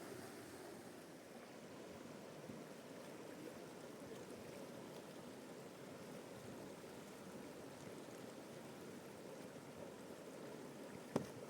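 Steady rushing of river water, with one sharp knock near the end.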